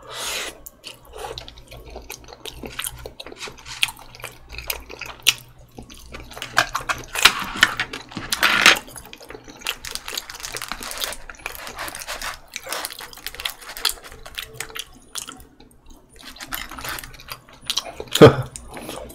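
Close-miked wet chewing and slurping of spaghetti in tomato sauce: a steady run of small, moist mouth clicks and smacks, with one sharp louder click near the end.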